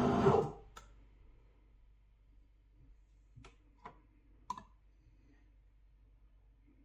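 Music cuts off about half a second in, leaving a quiet room with a few faint, scattered clicks.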